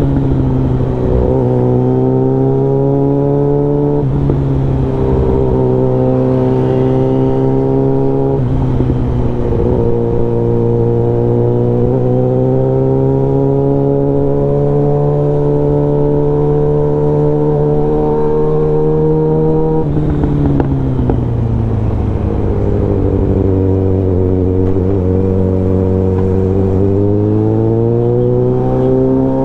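Suzuki Bandit 650N inline-four with a full aftermarket exhaust, heard while riding. The engine note climbs in short pulls with brief dips at gear changes, then holds steady for about ten seconds. About two-thirds of the way through it drops off as the bike slows, and near the end it climbs again as the throttle opens.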